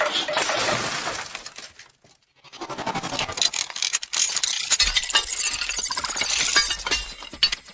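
Shattering, breaking noise full of sharp clicks, in two stretches with a short break about two seconds in.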